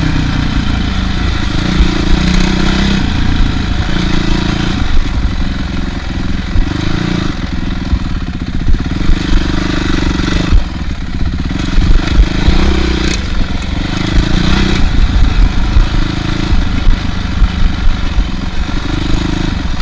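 Honda CRF450R's single-cylinder four-stroke engine running at low trail speed, its note rising and falling as the throttle is worked, a bike that dislikes going this slow. Heavy low rumble of wind and bumps on the bike-mounted camera's microphone.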